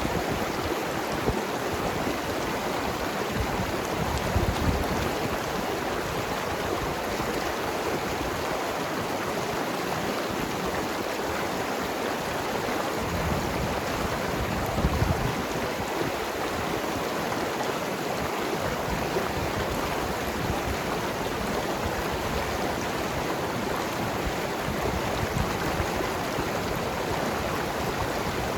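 Mountain river flowing and gurgling over rocks: a steady rush of water with small splashes and burbles.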